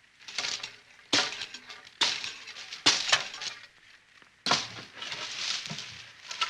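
Glass breaking: a series of about four sudden crashes roughly a second apart, each trailing off as it fades.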